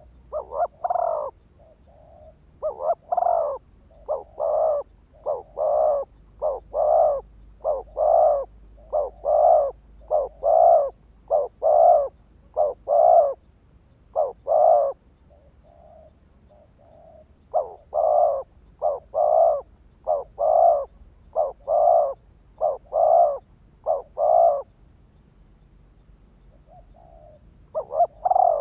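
Spotted dove cooing: short, low coo notes repeated in long runs of about one or two notes a second, pausing briefly twice. It is the decoy bird's cooing used to excite and lure wild doves.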